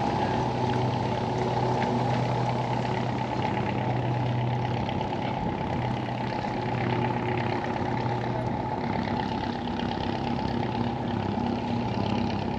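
An engine running steadily with a low hum, over a constant outdoor background noise.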